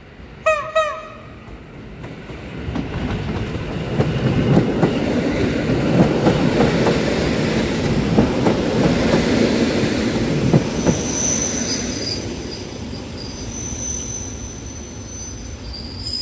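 An electric multiple unit's horn sounds two short notes. The train then passes close by: a rumble of wheels on rail builds and holds, with clicking as the wheels go over rail joints. Near the end, high-pitched wheel squeal comes in as the last cars take the curve.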